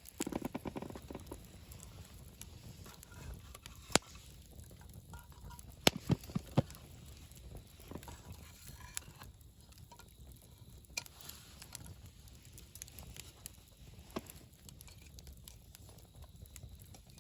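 Wood campfire burning: a low, steady rumble of the flames with sharp crackles and pops scattered through, including a quick cluster of three pops about six seconds in. There is a brief louder rustle at the very start.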